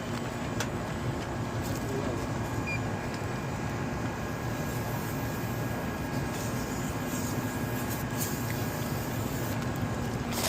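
Commercial rooftop air-conditioning unit running: a steady mechanical drone with a faint low hum.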